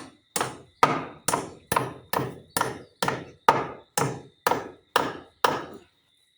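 A hammer driving a nail with a steady run of blows, a little over two a second, stopping shortly before the end.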